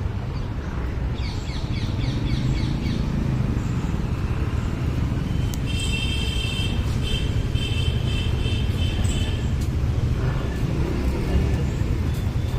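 Steady low rumble of road traffic, with bursts of high, rapidly repeated chirping calls: a short run between about one and three seconds in, and a longer run from about six to nine and a half seconds.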